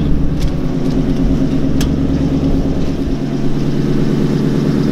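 Car engine idling steadily, with two sharp clicks about half a second and two seconds in; the deep rumble drops away about three seconds in.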